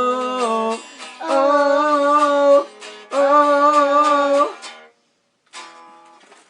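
Wordless sung "oh" notes, three long held notes with a slight waver, over a plucked acoustic string instrument. The music stops briefly about five seconds in, then resumes faintly.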